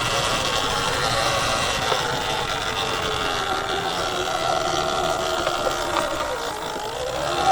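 Sur-Ron Ultra Bee electric dirt bike's motor whining as it rides, over a steady rushing noise. The pitch sags slowly, then climbs quickly near the end as the bike speeds up.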